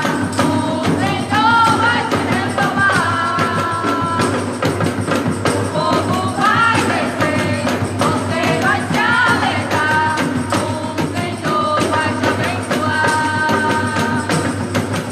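Live gospel worship music from a band: a vocal line over a steady beat with tambourine-like percussion.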